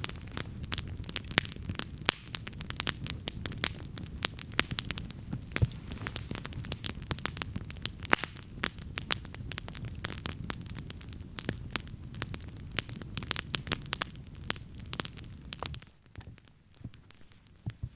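Wood campfire crackling, with many sharp pops and snaps over a low steady rumble. About two seconds before the end the rumble drops away and the crackles thin out.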